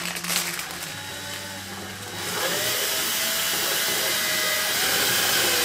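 Cordless screwdriver running steadily for about three and a half seconds from about two seconds in, driving a through-screw of an interior door handle set.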